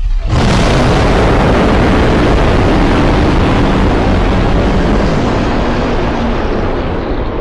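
Custom-made monster roar sound effect: a loud, dense, noisy roar that starts suddenly out of silence and holds steady, easing off slightly near the end.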